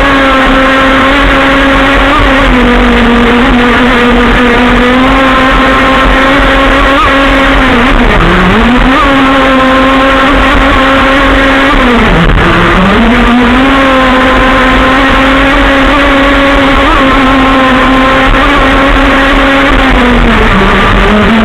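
Modified Zenoah two-stroke petrol engine of an RC model running at high, steady revs. Its pitch dips briefly three times as the throttle is eased off and reopened.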